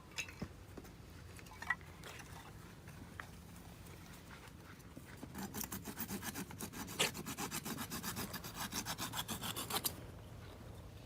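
Fast, even rasping strokes, like something being sawn or scraped, from about five seconds in until nearly ten seconds, with a few faint ticks before them.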